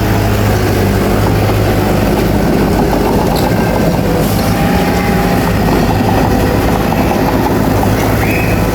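Bulldozer's diesel engine running steadily, a loud continuous low drone.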